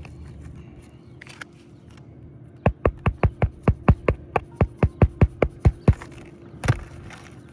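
Hand hammer quickly tapping a roofing nail into an asphalt shingle to re-secure it: about sixteen rapid, even strikes, then one last blow a moment later.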